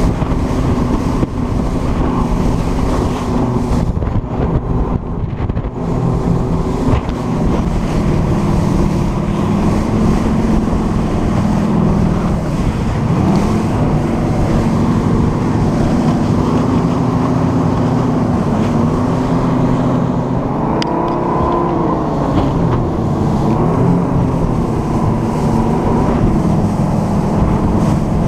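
A motor yacht tender's engines running under way, their pitch dipping and rising a few times as the throttle changes, with wind buffeting the microphone.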